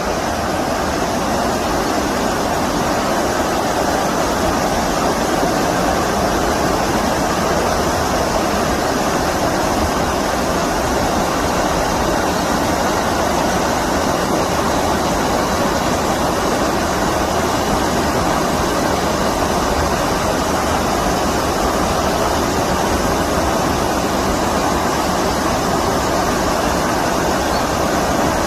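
Flowing stream water rushing in a steady, unbroken stream of noise.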